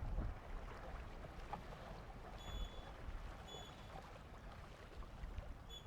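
Faint outdoor ambience of wind and water on the regatta course, with short high electronic beeps about two and a half seconds in, again a second later, and once more near the end.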